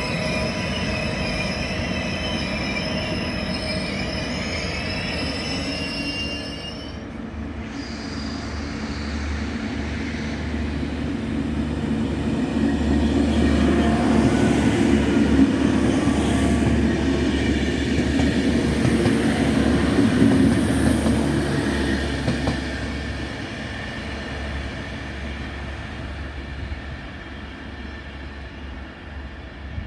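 A train on the station tracks: high wheel squeal with several steady shrill tones for the first several seconds, stopping abruptly, then a heavy rumble of the train rolling by that builds to a peak midway and fades away.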